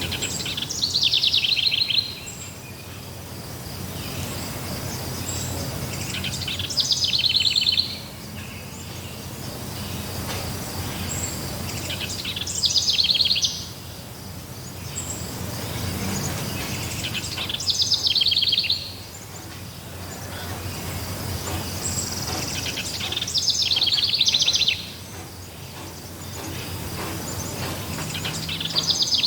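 A songbird repeating the same short, fast trilling song about every five and a half seconds, each phrase about a second and a half long and falling in pitch. Underneath is a steady forest background hiss with a faint high insect-like drone.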